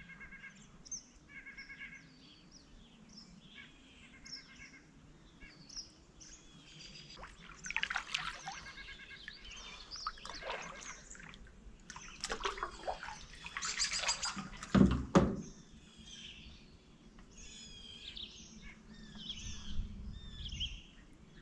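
Several birds chirping and trilling in short, repeated calls, with a few light water splashes and one dull knock about fifteen seconds in.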